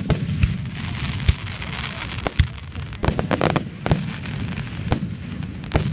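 Aerial fireworks exploding: a sharp bang right at the start, then a string of separate bangs with a quick cluster a little past the middle, over a continuous rumble.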